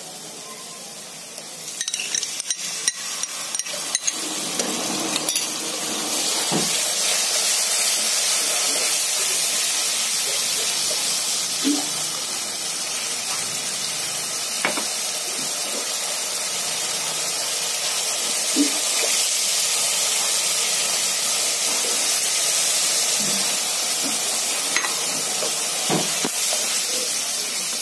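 Yogurt sizzling as it fries in hot oil with onions, garlic and spices in a frying pan, while a wooden spoon stirs and now and then knocks against the pan. The sizzle starts a couple of seconds in, grows, and holds steady from about six seconds on.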